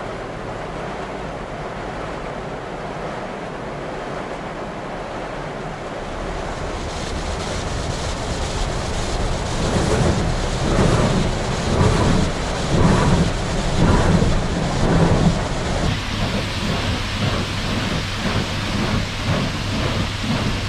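Large truck wash machine running over a truck: a rumbling rush of spraying water that builds from about six seconds in, swells and pulses in the middle, then turns to a brighter, rain-like hiss near the end.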